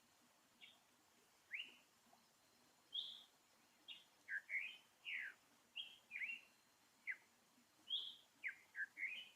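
A quick run of short, high chirping calls, about fifteen of them, some sweeping up and some sweeping down in pitch, over a quiet background.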